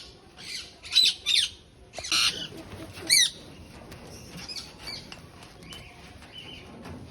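Pet macaw squawking: about five loud, harsh squawks in the first three seconds or so, then softer, quieter calls.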